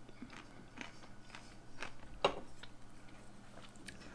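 Soft chewing and wet mouth sounds of someone eating a mouthful of stuffed pepper and rice, with scattered small clicks and a sharper click about two seconds in.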